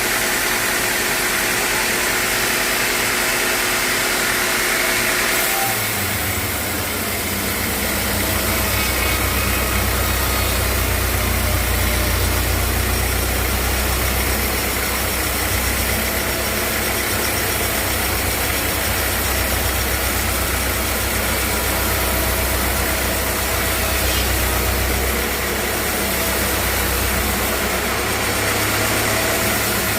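Sawmill machinery running steadily, a loud engine-like noise with a deep low hum that comes in about six seconds in and eases off and back near the end.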